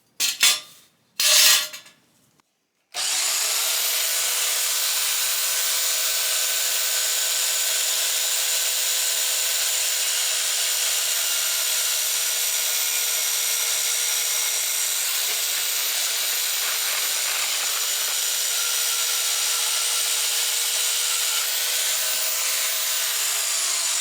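Two sharp knocks of steel being handled, then an electric cutting tool spins up about three seconds in and runs steadily with a high hiss and whine, cutting through steel stock, before winding down near the end.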